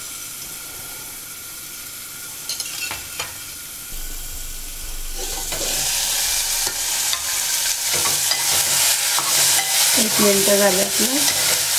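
Tomato pieces, green chillies and curry leaves frying in hot oil in a pot: a soft sizzle at first that gets much louder about five seconds in, when the lid is off. From then on a spoon stirs through the pieces, with scraping strokes over the sizzle.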